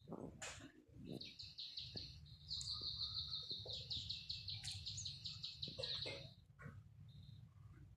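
A bird calling in a rapid run of high, repeated notes lasting about five seconds, over a low steady hum.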